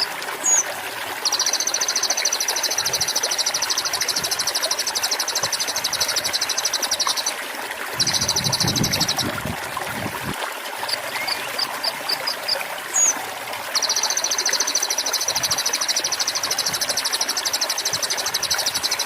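A konin songbird singing long, very fast high-pitched trills, each led in by a short run of quick chirps, over trickling water. The same phrase repeats about every 13 seconds, as in a looped bird-training track.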